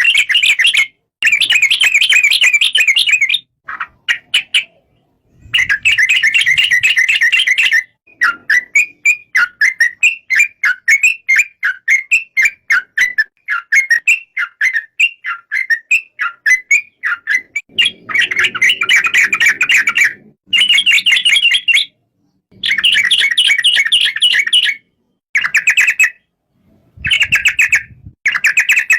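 Yellow-vented bulbul (trucukan) singing: rapid, bubbly chattering phrases in bursts of a few seconds with short breaks between them, and a slower run of separate notes in the middle.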